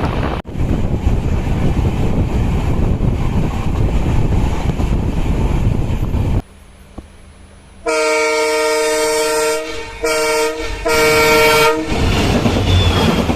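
Train running with a steady rushing noise; after a short quieter break, a train horn sounds three times: one long blast, then two shorter ones. The running noise then returns.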